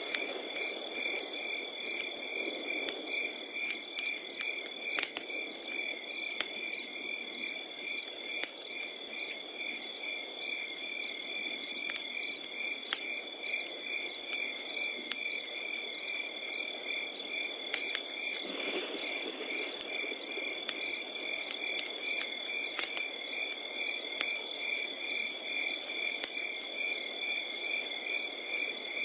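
Crickets chirping in an even rhythm, about two chirps a second, over a steady high insect trill. A wood fire crackles underneath with scattered sharp pops.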